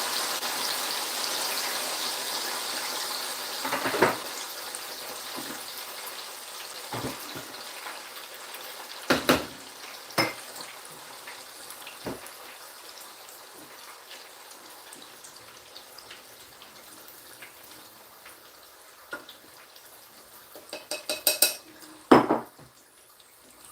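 Tofu frying in hot oil: a steady sizzle that slowly dies down, with occasional clanks of a utensil against the pan and a quick clatter near the end.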